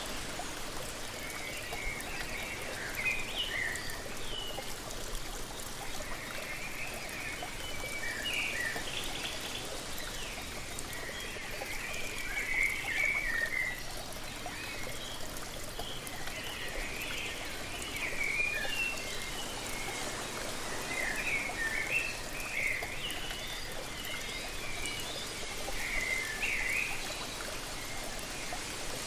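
Songbirds singing in short chirping phrases, on and off throughout, over the steady rush of a waterfall.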